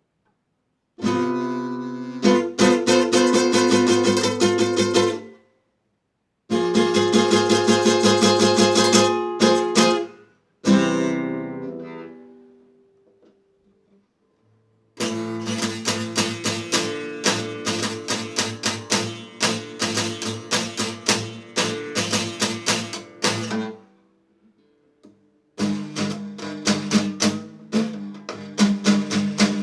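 A guitar strumming chords in quick, rhythmic strokes, in several passages with short pauses. One chord is left ringing and fades out midway.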